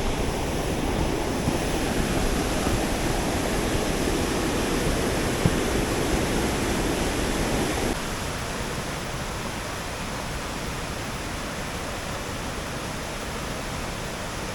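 Steady rush of a cascading waterfall, an even noise with no pauses; about eight seconds in it drops to a quieter, thinner rush.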